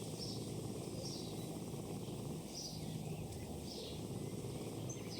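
Countryside ambience sound effect: a bird repeats a short, high, falling call about once a second over a faint steady low background.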